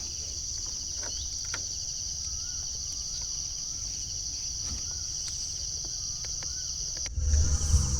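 Crickets and other insects chirring in a steady, high-pitched, fast-pulsing drone, with a faint wavering call repeating a few times in the middle. About seven seconds in the sound breaks off briefly and a louder low rumble begins.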